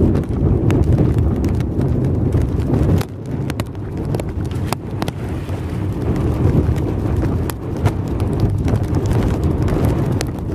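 Strong wind buffeting the microphone as a heavy, gusting rumble, with scattered sharp ticks of rain striking close by.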